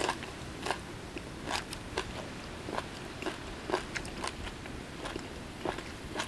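Close-up chewing of a mouthful of crunchy golden apple snail salad and raw greens, with sharp crunches about every half second to second.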